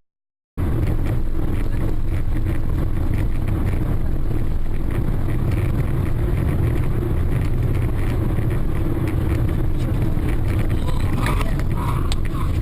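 Steady car engine and road rumble picked up by a dashcam inside a moving car, starting after half a second of silence at a cut.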